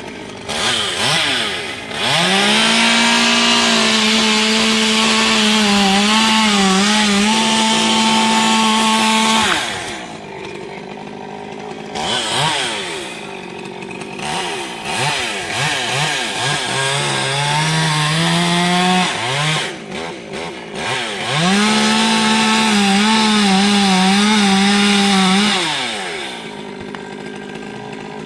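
Two-stroke chainsaw cutting tree wood. It revs up to full throttle for about seven seconds, drops back to idle, gives a series of short revs with the pitch sagging under load, then makes another long full-throttle run and falls back to idle near the end.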